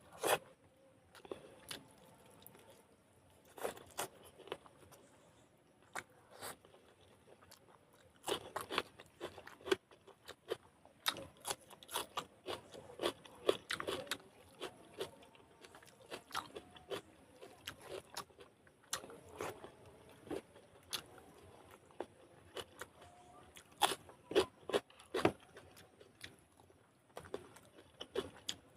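Close-miked mukbang eating sounds: a person biting and chewing chicken and rice, with many short, sharp crunches and smacks coming in irregular clusters, busiest about a third of the way in and again near the end.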